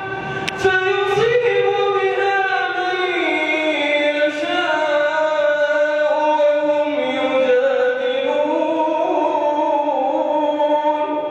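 A man's voice reciting the Quran in the melodic chanted style of tajweed, holding long drawn-out notes whose pitch glides slowly up and down.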